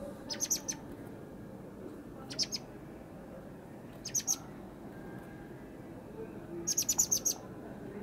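Young songbirds chirping in four short bursts of quick, high chirps a second or more apart; the last burst, about seven seconds in, is the longest.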